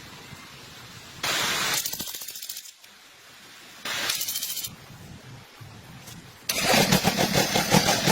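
Iseki TX1210 tractor's small diesel engine being started: two short bursts of cranking on the starter, then about six seconds in it catches and keeps running with a fast, loud clatter.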